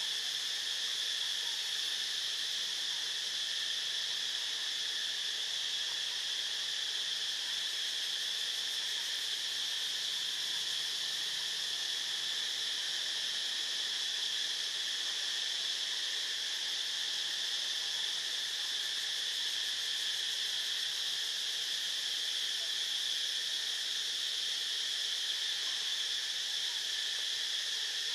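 Steady, high-pitched drone of a chorus of insects, unbroken and even in level throughout.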